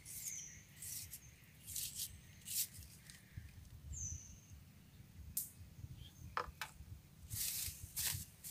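A bird gives a short falling whistle twice, a few seconds apart, among brief hissing rustles that come and go, the loudest near the end, over a low rumble.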